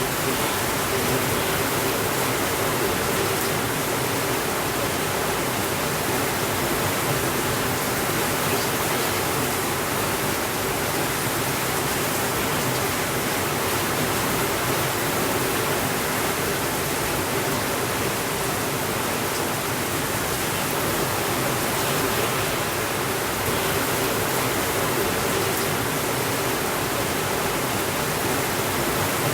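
Steady rainfall, an even hiss that holds the same level throughout.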